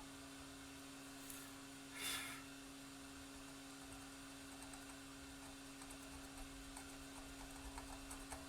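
Faint steady electrical hum, with a short hiss about two seconds in and light scattered clicks and ticks in the second half.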